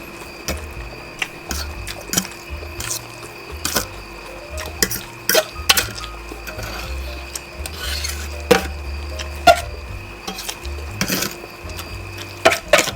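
Cutlery clicking and scraping against a bowl or plate in irregular, sharp clicks, over quiet background music.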